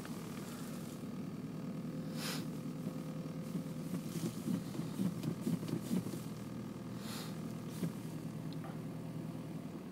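Audi A4 B5 1.8 four-cylinder petrol engine idling steadily at about 1100 rpm, heard from inside the cabin, still cold after a start at −22 °C. Two brief swishes, about two seconds in and near seven seconds.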